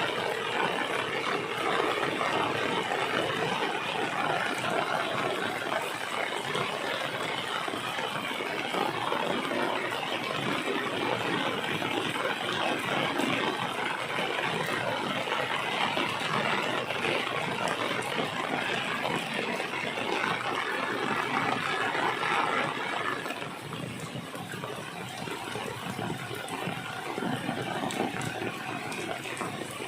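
Heavy rain falling steadily, easing a little about three-quarters of the way through.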